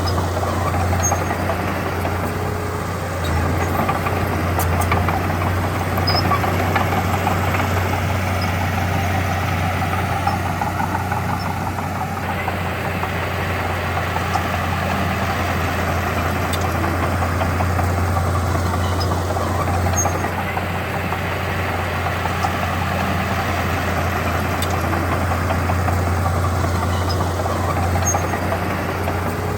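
Diesel engine of heavy earthmoving equipment running steadily, a strong low engine hum that swells a little now and then.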